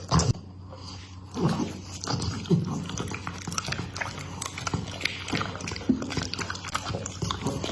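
Pit bull eating, chewing and biting at its food with many short sharp clicks and smacks.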